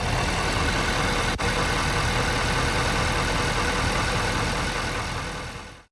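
Ford 6.7 L Power Stroke V8 diesel idling steadily, fading out near the end.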